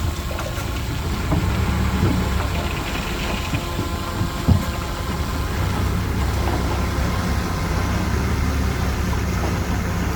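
Diesel engine of a Shantui DH17C2 bulldozer running steadily, with a few short sharp knocks, the loudest about four and a half seconds in.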